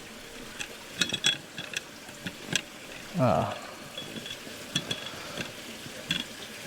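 Irregular metal clicks and clinks of a small gas burner and its gas pipe being pushed into place under a toy steam traction engine, with the lit burner hissing steadily underneath.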